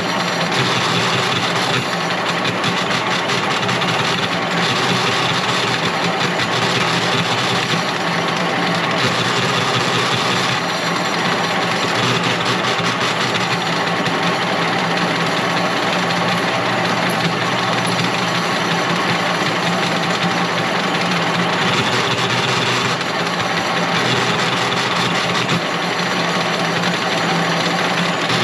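An engine or motor running steadily at an even, unchanging speed.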